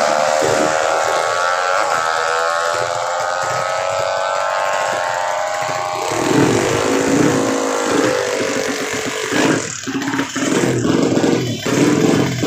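Drag-racing motorcycle engine held at high revs, its pitch easing slightly. About halfway through, a lower-pitched engine note takes over, wavering up and down with brief dips near the end.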